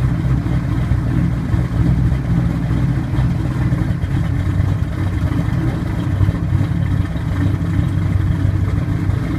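Turbocharged Chevrolet Camaro IROC engine idling steadily, with a choppy, uneven pulse and no revving.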